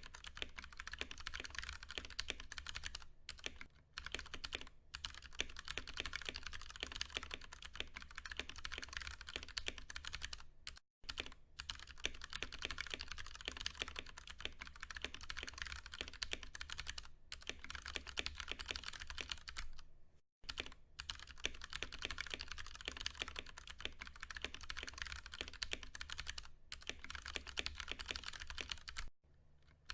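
Continuous fast typing on a Ducky One 2 Mini mechanical keyboard with Cherry MX Brown tactile switches, a dense clatter of keystrokes. It breaks off for brief pauses about a third and two-thirds of the way through and again just before the end.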